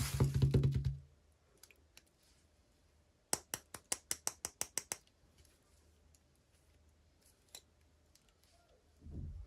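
Hand handling of toy packaging: a second of rustling, then a quick run of about a dozen sharp clicks, and a soft low thud near the end.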